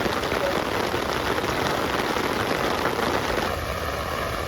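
Heavy rain falling, a dense steady hiss. A faint steady hum joins under the rain about three and a half seconds in.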